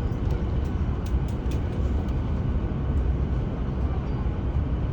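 Airbus A350 cabin noise after landing: a steady low rumble from the engines and the rolling airframe while taxiing, with a few faint clicks in the first couple of seconds.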